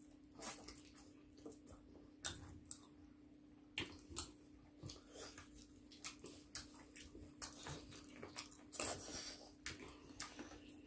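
Faint sounds of two people chewing and biting into fried chicken: irregular wet smacks and clicks of mouths and teeth, over a faint steady hum.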